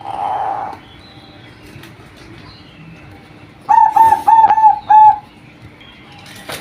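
Female zebra dove (perkutut) giving a quick run of five short cooing notes, about four seconds in.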